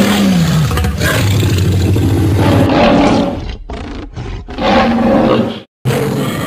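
Animated lion character roaring, loud and rough, the pitch falling at the start; the level dips a few times and cuts out to silence for a moment near the end before the roar starts again.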